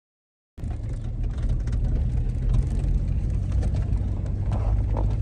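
A car's engine and road noise heard from inside the moving car: a steady low rumble that starts abruptly about half a second in.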